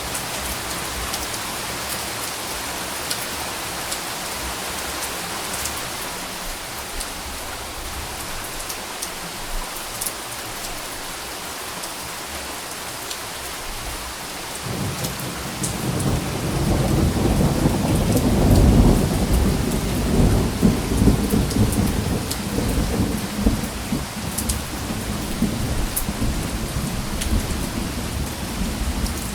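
Steady rain falling, with scattered drops ticking close by. About halfway through, a long low rumble of thunder builds, is loudest a few seconds later, and keeps rolling softly.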